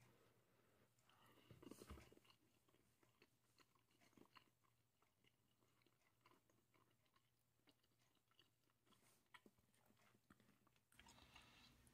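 Faint chewing of a mouthful of meatloaf and spinach, with scattered soft mouth clicks, a little busier about a second or two in.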